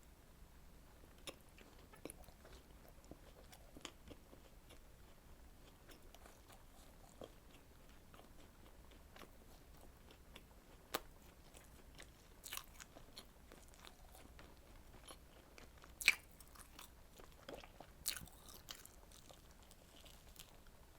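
Faint, close-miked eating sounds of strawberry desserts being eaten: quiet chewing and biting with scattered sharp mouth clicks and crunches. The loudest click comes about sixteen seconds in.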